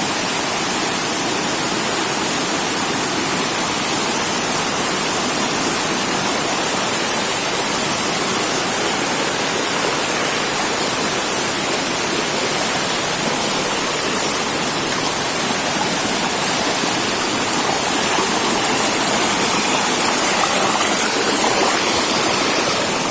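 Steady, loud rush of falling water, growing a little louder near the end.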